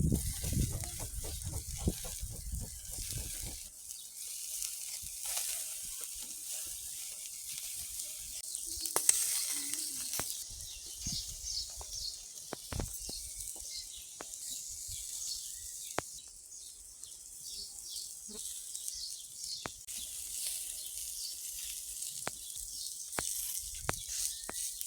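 Meat sizzling on a grill: a steady high hiss with scattered sharp crackles and pops throughout, and some low rumbling in the first few seconds.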